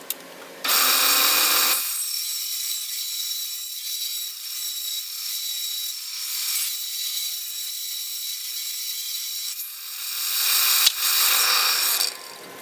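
Power woodworking tool cutting a white oak board: a loud, high whining cut that starts abruptly, runs quieter through the middle, swells again near the end and then stops abruptly.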